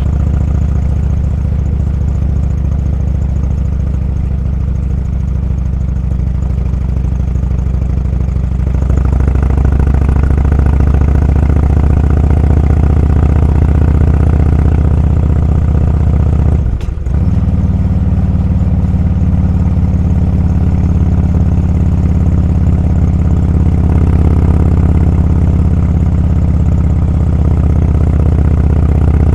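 Motorcycle engine running under way, heard from onboard as a steady drone. It grows louder about nine seconds in, with a short break in the engine sound just past halfway.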